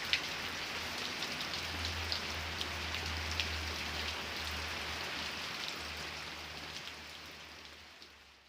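Steady rain falling, with individual drops ticking on a surface over an even hiss and a low rumble underneath. It fades out over the last two seconds or so.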